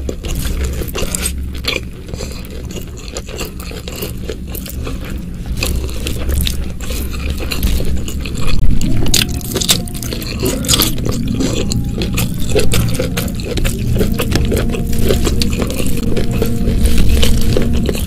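Close-miked eating by hand: a person chewing a mouthful of rice and spicy side dishes, with a steady run of wet mouth clicks and crunches. Near the end, fingers squish and scrape through rice on a banana leaf.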